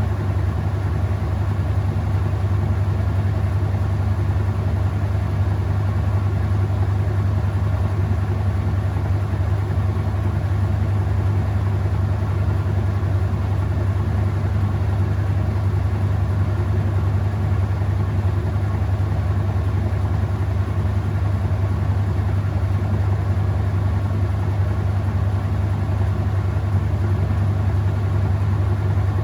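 Whirlpool top-load washing machine running mid-cycle, a steady low motor hum with no breaks or change in pace.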